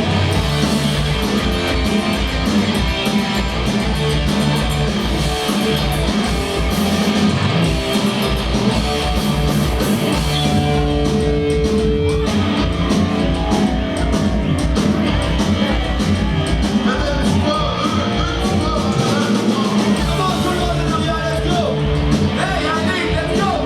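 Punk rock band playing live and loud: distorted electric guitars, bass and drums at a driving beat, with sung vocals over it. The cymbals drop out briefly about halfway through before the full band comes back.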